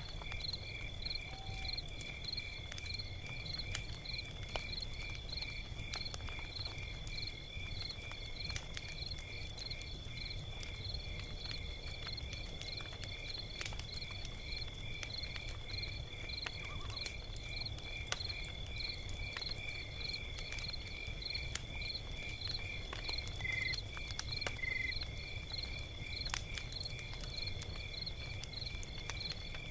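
Log fire crackling with scattered small pops over a low steady rumble. Insects chirp in even, regular pulses, about two a second, over a constant high trill.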